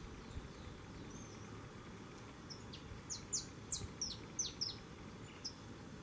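A songbird singing a quick series of sharp, high notes that each sweep downward, about ten of them over three seconds in the middle of the stretch, over a low background rumble.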